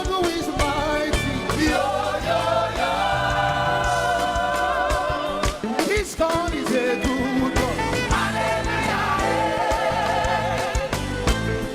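Live gospel praise music: a band with drums and bass, with singing that holds long, wavering notes twice.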